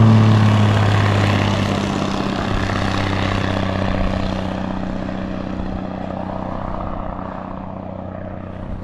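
A plane flying past, its engine drone steady in pitch and slowly fading as it moves away.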